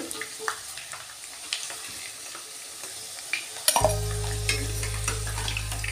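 Potato wedges sizzling in hot mustard oil in a pan, with the scrapes and sharp clicks of a metal spatula stirring and lifting them out. About four seconds in, steady low background music begins under the frying.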